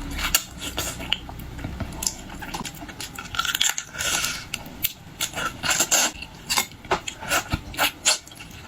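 Boiled shellfish shells being cracked and picked apart: a string of sharp clicks and clinks, with short crackling bursts about four and six seconds in.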